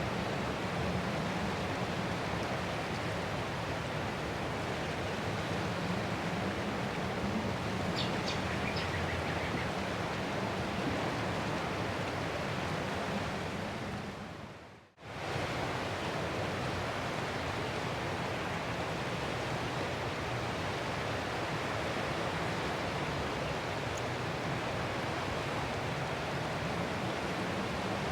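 Ocean surf as a steady, even wash with no distinct breaking waves. About halfway through it fades out briefly and comes straight back in. A few faint high chirps sound about eight seconds in.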